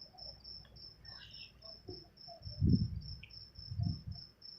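A cricket chirping steadily in the background, a high, evenly repeated chirp several times a second. Two low, dull thuds come near the middle.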